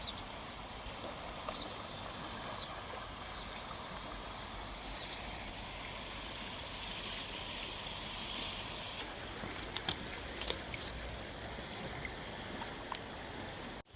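River water flowing steadily, with a few short high chirps over it.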